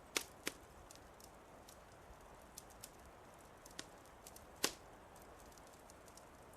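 Wood fire crackling in a fireplace: scattered sharp pops and small snaps over a faint steady hiss, with the loudest pops just after the start and again a little past the middle.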